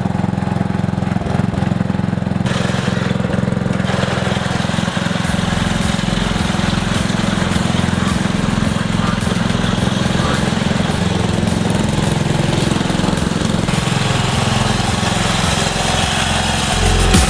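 Lawn tractor's small gasoline engine running steadily, its note shifting about five seconds in.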